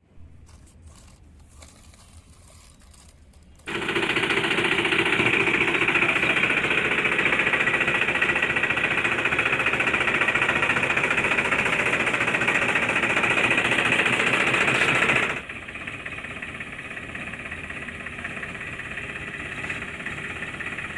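A rapid, steady mechanical clatter like a small motor running. It starts loud about four seconds in and drops to a lower, steady level about fifteen seconds in.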